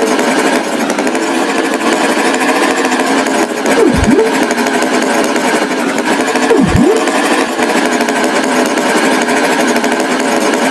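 A loud, steady mechanical rattle like a running motor, with a pitch that dives and swoops back up twice, about 4 and 7 seconds in.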